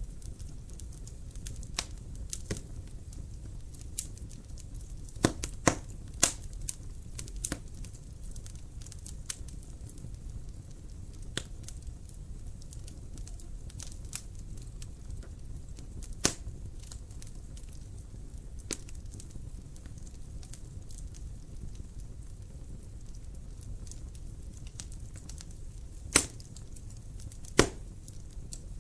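Wood fire crackling in a fireplace: irregular sharp snaps and pops over a steady low rumble of the flames, with a few louder pops scattered through.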